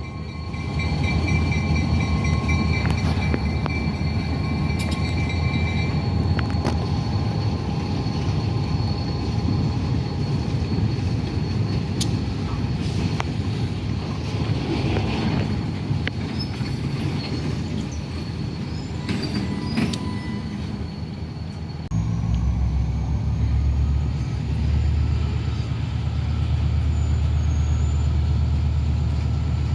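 Freight train rolling past: a steady rumble of cars on the rails with thin, high wheel-squeal tones and an occasional click. About 22 seconds in, a louder, deeper rumble takes over.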